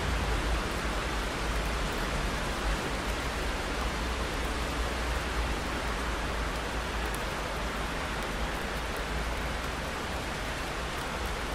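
Steady rain falling, an even hiss spread across all pitches, with a constant low rumble beneath it.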